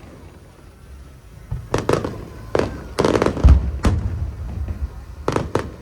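Fireworks display shells bursting in quick succession: after a short lull a run of sharp bangs begins about a second and a half in, with one deep, heavy boom in the middle and a fast cluster of bangs near the end.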